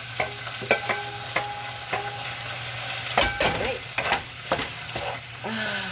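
Chicken thigh pieces stir-fried with chilies and bell peppers in a hot pan: a steady sizzle with repeated knocks and scrapes of the utensil against the pan, the loudest about three seconds in.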